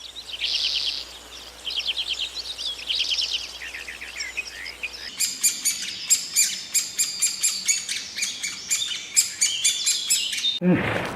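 Birds singing in quick chirping trills, then, about five seconds in, a busier run of short, sharp chirps from a different bird recording.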